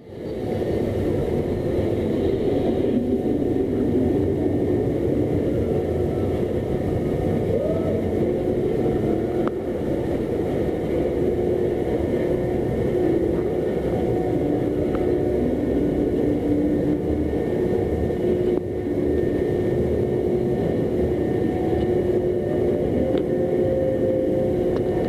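Blue Tornado roller coaster heard from on board: a steady rumble with a faint low hum running through it.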